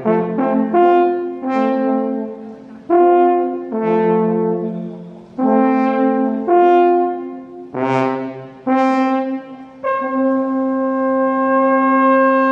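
Brass horn music: a slow tune of separate held notes, ending on one long held note from about ten seconds in.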